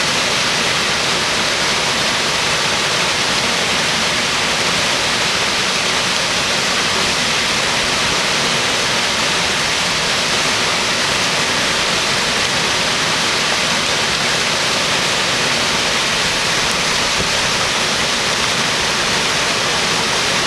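Waterfall and fast river water rushing steadily.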